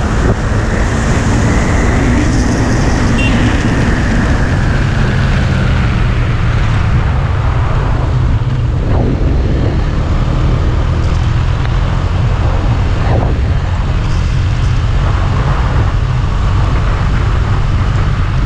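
KTM Duke 390's single-cylinder engine running as the motorcycle rides on, mixed with wind rushing over the microphone.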